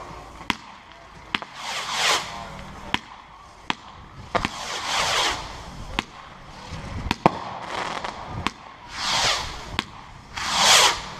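Fireworks going off: a run of sharp bangs, irregularly spaced, mixed with four whooshing sweeps that fall in pitch. Two bangs come close together about seven seconds in.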